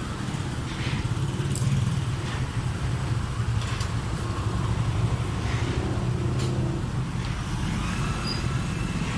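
An engine running steadily with a low drone, with a few faint clicks over it.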